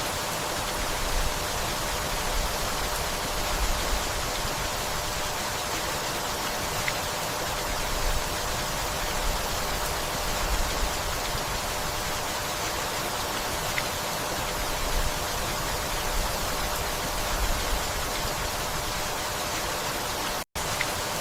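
Steady rainfall, an even hiss of rain, with small low swells. The sound cuts out for an instant near the end.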